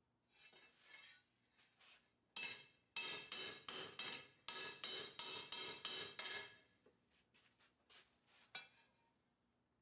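Hand hammer striking a steel blade on an anvil: a run of about a dozen ringing blows, roughly three a second, starting about two and a half seconds in. Lighter scattered taps come before and after the run.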